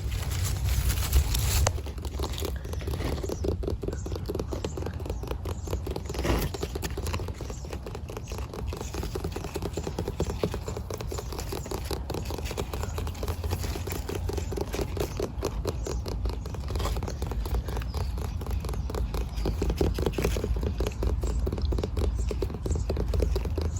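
Close-up rapid scratching and rustling, many small strokes a second without pause, with a brighter hiss for the first second and a half.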